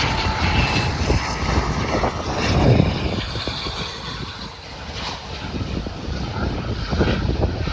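Small private jet's engines running as it passes, a steady rumble with a faint whine that fades early on, mixed with wind buffeting the microphone.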